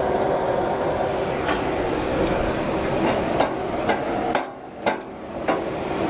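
Several sharp metal knocks, like hammer or wrench strikes on steel, spaced unevenly over a steady machine engine running. The engine sound drops away briefly about two-thirds of the way through.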